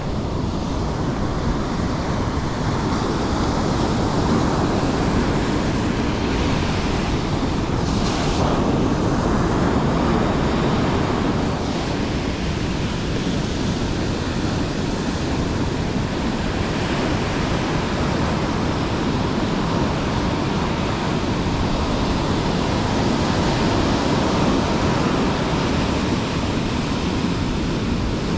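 Steady rushing noise of surf breaking, with wind buffeting the microphone and a brief louder rush about eight seconds in.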